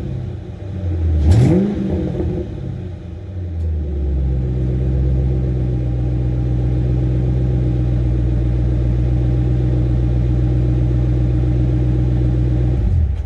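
2005 Mustang GT Saleen's V8 through its Saleen exhaust, blipped once about a second in, then settling into a steady idle. The engine cuts off suddenly just before the end.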